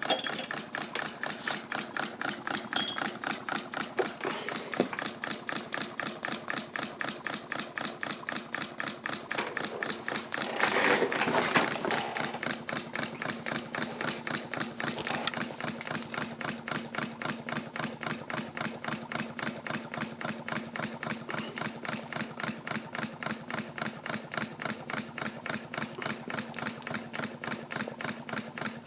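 Homemade model steam engine with a 1-inch bore, running on live steam and beating out a fast, steady rhythm of exhaust chuffs and mechanical clatter. A louder rush of noise comes about ten seconds in.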